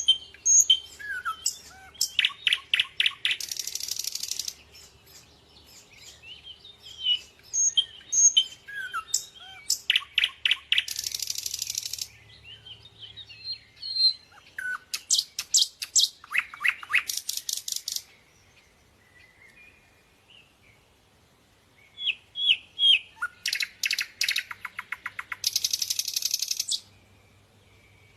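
Small songbirds singing: phrases of high chirps and whistles that run into fast trills, repeated in four bouts, with a pause of a few seconds about two-thirds of the way through.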